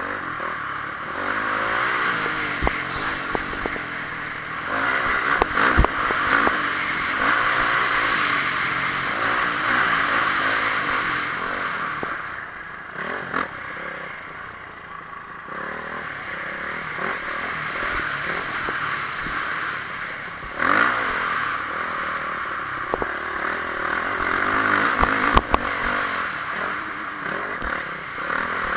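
Honda CRF450R's single-cylinder four-stroke engine revving up and down through a motocross race, with a few sharp knocks.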